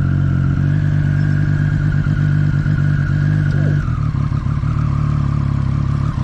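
Motorcycle engine running steadily under load, its pitch stepping down a little about four seconds in.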